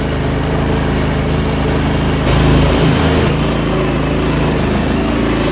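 Small engine running steadily, a little louder for about a second between two and three seconds in.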